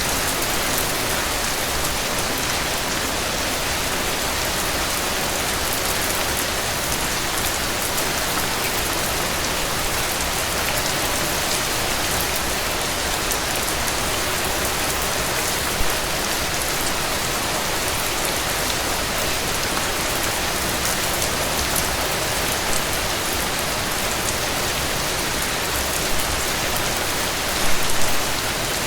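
Heavy rain falling steadily on a surface, an even hiss of drops, with a few brief louder ticks, several of them close together near the end.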